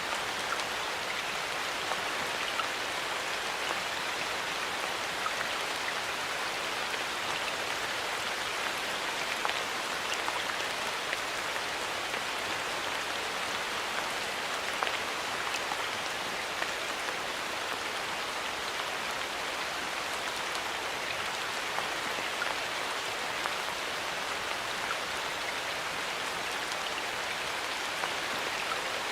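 Steady rain falling in a forest, an even hiss with scattered individual drop ticks.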